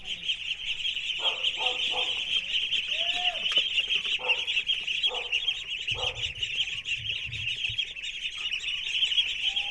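Penned domestic ducks quacking in several short, scattered calls, over a louder, steady high-pitched buzzing.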